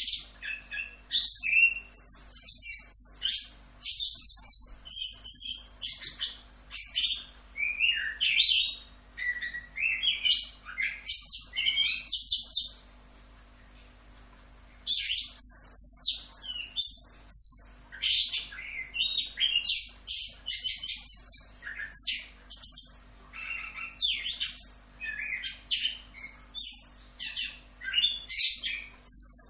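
Chestnut-capped thrush (anis kembang) singing a fast, varied, continuous song of high phrases, with a pause of about two seconds near the middle.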